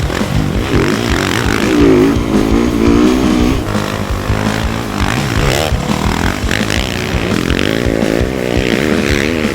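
Dirt bike engine revving, its pitch rising and falling over and over.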